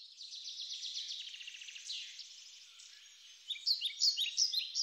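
Songbirds singing: a fast, high trill of quickly repeated notes, then from about three and a half seconds in, louder short chirps that each drop in pitch.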